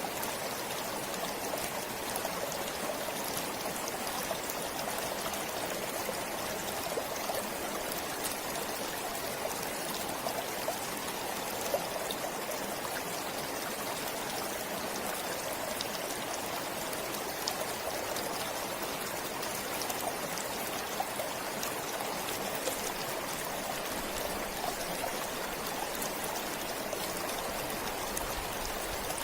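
Forest stream flowing steadily, an even rushing of water with small splashes and trickles scattered through it.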